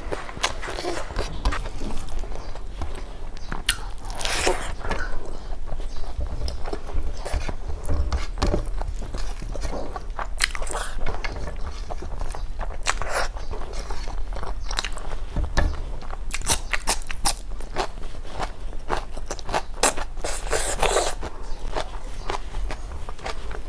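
Close-miked chewing of a mouthful of curry and rice, full of wet clicks, lip smacks and small crunches, with fingers scraping food from a plate.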